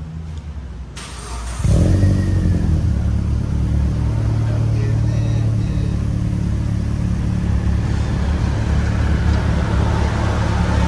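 Proton Saga BLM's four-cylinder engine running through a new full stainless-steel exhaust system and extractor: a steady, low exhaust note that comes in suddenly about a second and a half in, after music fades out.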